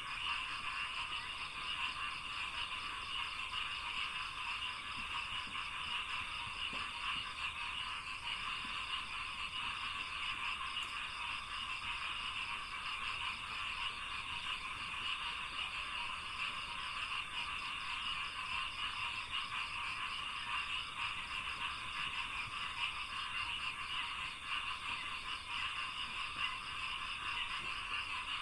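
Dense, unbroken chorus of many frogs calling in a rice paddy.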